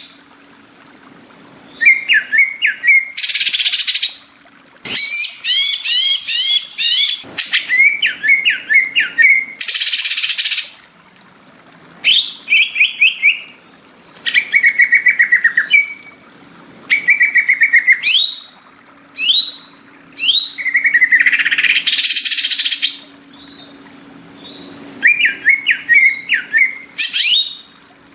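Green leafbird (cucak ijo) singing a loud, vigorous song in bursts every second or two. The phrases are rapid trilled notes, quick sweeping whistles and harsh rasping chatter, with short pauses between them.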